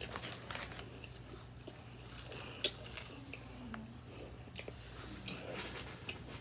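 A person chewing a mouthful of fried chicken sandwich close to the microphone, with soft crackly mouth clicks and two sharper clicks, about two and a half and five seconds in. A low steady hum runs underneath.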